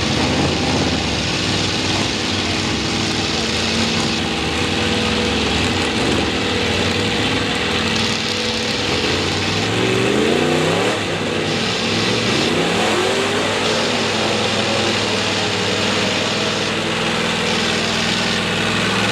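Mega mud truck's V8 running loud through open headers, its pitch climbing and falling in a series of revs about halfway through.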